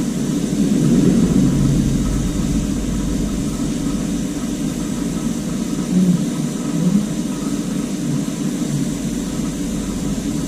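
Brazing torch flame burning with a steady low roar, which swells briefly about a second in and twice more past the middle.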